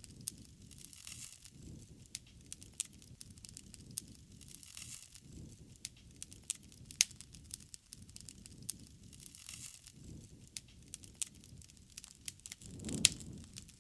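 Wood fire crackling, with irregular sharp pops and snaps over a low, swelling rush of burning. The loudest pops come about halfway through and near the end.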